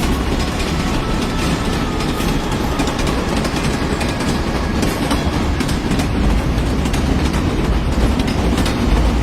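Toy train running along its track: a steady whir with wheels clattering over the track.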